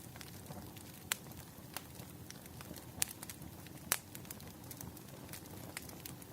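Wood fire crackling: a low steady rumble of burning logs with scattered sharp pops and snaps, the loudest about one, three and four seconds in.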